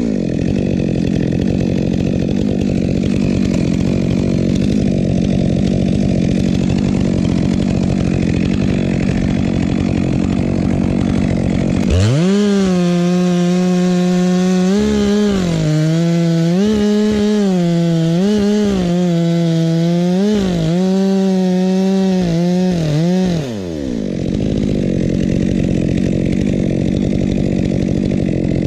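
Two-stroke chainsaw cutting oak under load. About twelve seconds in, it changes to a clear high engine whine that rises and falls with the throttle for about eleven seconds, then drops back into the rougher cutting sound.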